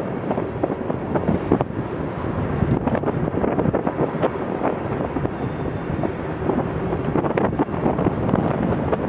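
Freight train of grain cars rolling past on the rails, a steady rumble thick with short clicks, with wind on the microphone.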